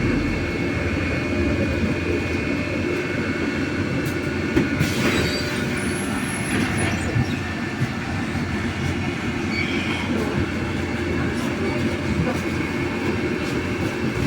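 Cabin noise inside a MAZ-303E10 electric bus under way: a steady rumble with a thin electric whine from the drive. There is a brief sharp clatter about five seconds in.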